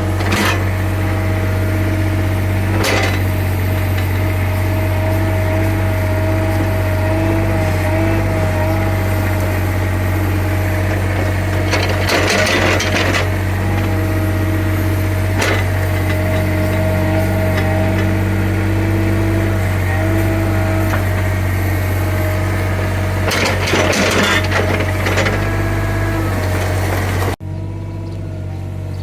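Small CAT excavator's diesel engine running steadily with a wavering whine over a deep hum, with several short rattling noises from the digging. The higher sounds cut off abruptly near the end, leaving the low hum.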